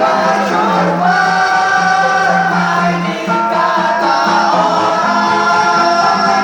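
Choir singing in parts, holding long sustained notes over an accompaniment.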